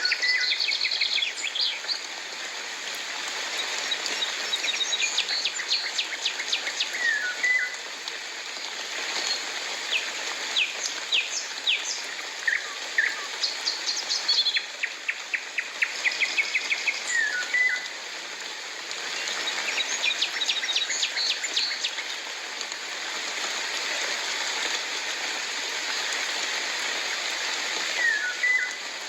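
Birds calling over and over, each phrase a fast run of short high notes with a few slurred whistles, over the steady hiss of falling rain.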